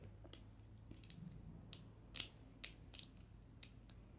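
Plastic Lego bricks clicking and tapping as they are handled and pressed together: a scattering of small, sharp clicks at irregular intervals, the loudest about two seconds in.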